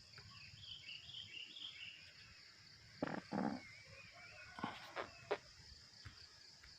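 Steady high-pitched chorus of insects, with a bird chirping and twittering over it. Two short louder noises about three seconds in, then a few faint clicks.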